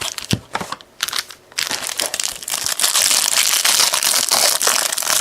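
Plastic wrapping crinkling and tearing as a trading-card hanger box is opened, with a few sharp clicks at first and then continuous crackling from about one and a half seconds in.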